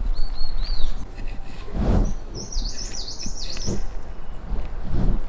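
A small bird chirping in two runs of quick, high notes, a short one at the start and a longer one about halfway through, with two dull thuds in between and near the end.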